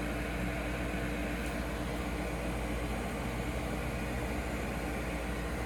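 Gas furnace draft inducer (flue) motor running with a steady hum and rush of air. It pulls enough draft yet the pressure switch does not close, which the technician takes for a faulty switch.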